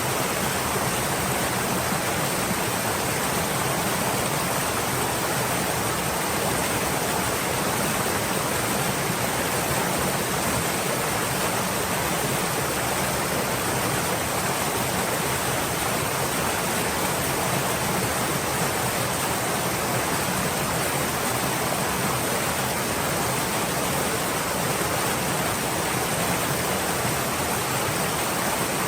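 Stream water flowing steadily, a dense, even rushing with no distinct splashes or changes.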